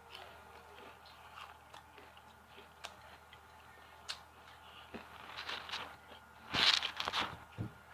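Biting into and chewing crispy fried chicken: small scattered crunches and clicks, then a louder burst of crunching near the end.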